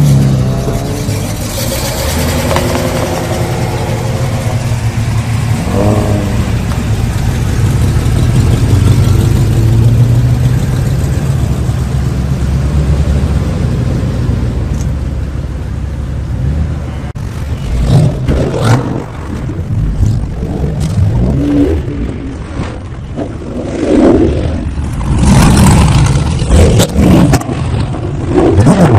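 A car engine running steadily, with a brief rise and fall in pitch about six seconds in; in the second half the steady note gives way to irregular, uneven noises.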